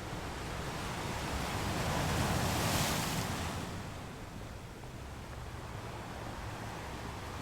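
Ocean waves breaking on a rocky beach: one wave builds and crashes in a hissing rush about two to three seconds in, then settles back into a steady wash of surf.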